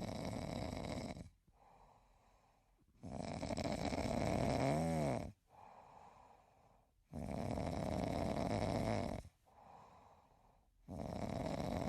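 A sleeping cat snoring in a slow, regular rhythm: a loud, rasping breath about every four seconds, with a much softer breath between each one.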